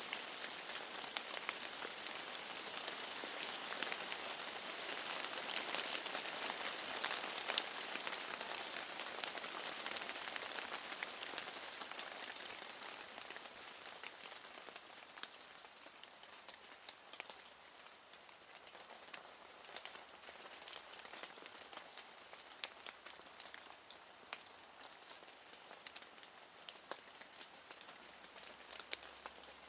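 Steady rain with many individual drops ticking. It eases off about halfway through to a lighter patter.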